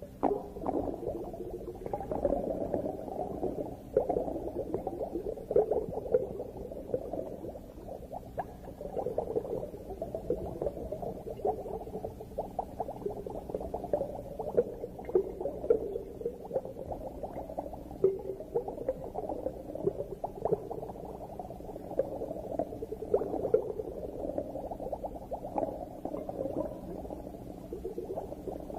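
Underwater ambience: continuous bubbling and gurgling water with many small irregular crackles and pops.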